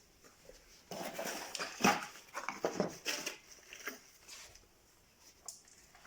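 Hand metal snips cutting a thin steel drywall profile: a run of irregular crunching, scraping cuts lasting about three seconds, then quiet.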